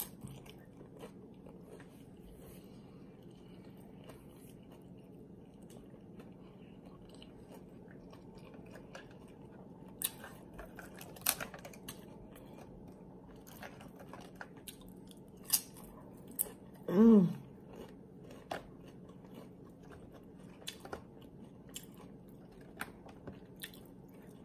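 Close-up chewing and crunching of loaded tortilla-chip nachos, with a few sharp crunches scattered through it, over a low steady hum. A brief vocal sound about 17 seconds in.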